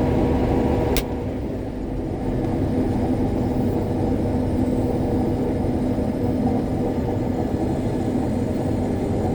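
Combine harvester running steadily, a constant machine drone with a steady hum. A single sharp click comes about a second in, after which the sound dips a little and builds back up.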